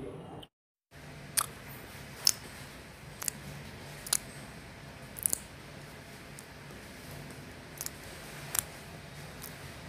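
Close-miked eating: a person chewing a mouthful of rice and curry, with sharp wet mouth clicks and smacks about once a second over a steady low hum. The sound cuts out briefly just under a second in.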